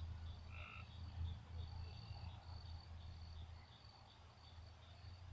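Outdoor ambience: an insect chirping in a steady rhythm, about two short high chirps a second, over a low steady hum, with one brief bird note about half a second in.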